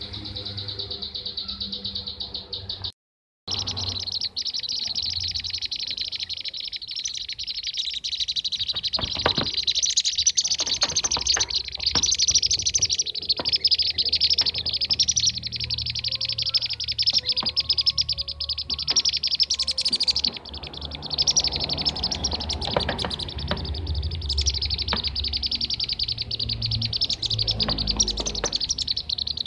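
Lure recording of bee-eater (kirik-kirik) calls: a dense, unbroken chatter of rapid high chirps. It cuts out briefly about three seconds in, with a low rumble underneath.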